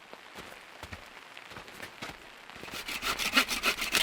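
Hand saw cutting through wet wood in a fast run of even strokes, starting about two and a half seconds in. Before that, only scattered light taps and hiss, like rain.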